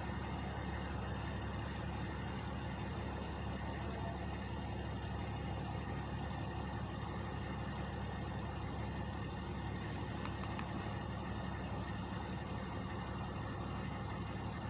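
Two truck engines idling in a steady, unbroken low hum, with a few faint ticks about ten seconds in.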